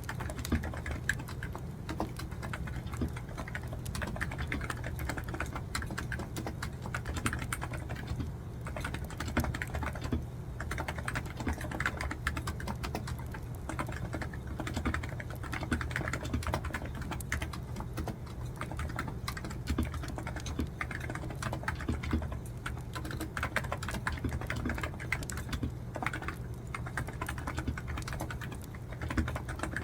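Typing on a computer keyboard: a steady, irregular stream of key clicks at writing pace, over a steady low hum.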